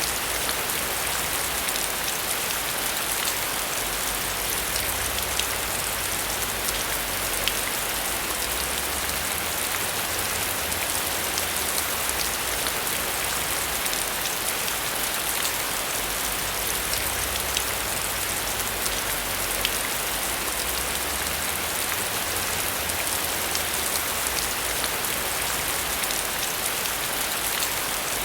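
Heavy rain falling steadily: a dense, even hiss with countless individual drops pattering on surfaces.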